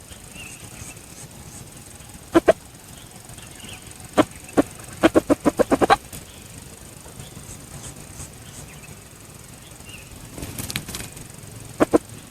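Junglefowl rooster beating its wings in short bursts of sharp claps: a pair about two seconds in, a single one, then a rapid run of about eight beats, and two more near the end.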